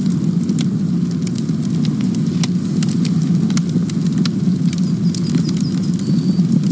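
Campfire burning: wood crackling and snapping in frequent irregular sharp pops over a steady low rumble of the flames.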